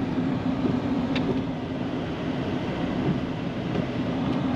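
Snow plow truck's engine running steadily, a constant low hum.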